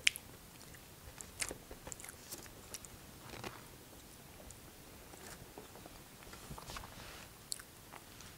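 A person chewing and eating, with soft mouth sounds. A sharp click right at the start is a plastic fork against a styrofoam takeout box, and small clicks are scattered after it.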